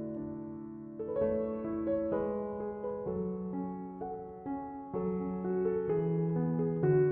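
Soft, slow piano background music: sustained chords with notes changing every half second or so.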